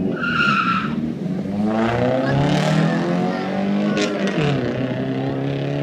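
Stock Infiniti G35 sedan's 3.5-litre V6 launching and accelerating hard down a quarter-mile drag strip, the engine note climbing steadily and dropping at an upshift about four and a half seconds in.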